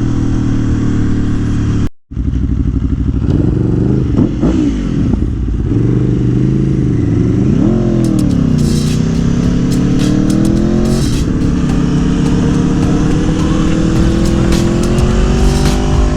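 Aprilia Tuono's Gabro Racing Stage 3-tuned engine pulling on the road, its revs rising and falling with the throttle, dropping at a gear change about eleven seconds in, then climbing steadily. The sound cuts out for a moment about two seconds in.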